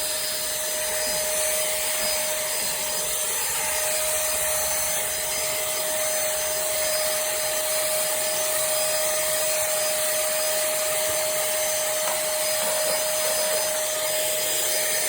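pemacom cordless handheld vacuum cleaner running steadily while vacuuming carpet with its brush tool: a steady motor whine over the rush of air.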